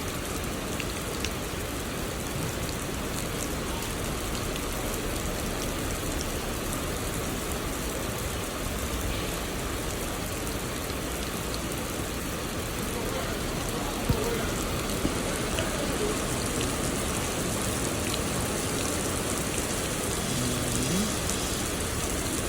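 Heavy rain falling in a steady hiss, pattering on surfaces, with a few sharp drip knocks; the loudest comes a little past the middle. The hiss brightens in the last third.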